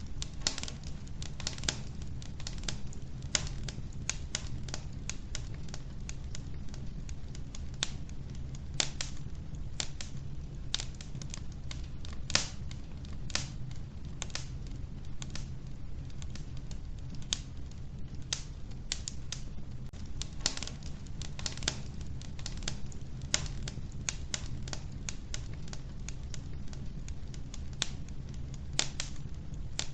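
Wood fire burning in a wood-burning stove, crackling and popping irregularly, several sharp cracks a second, over a steady low rumble.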